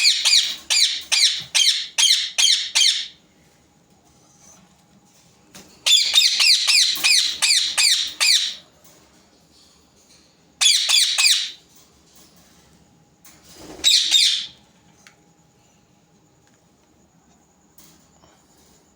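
Ringneck parakeets squawking: loud, harsh calls repeated about four a second in short bouts, with quiet gaps between them. The longest bouts come first, and two brief bursts follow later.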